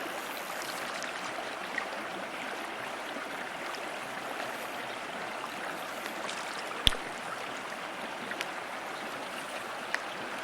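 River water rushing steadily over a shallow stream bed. A single sharp click a little past halfway through.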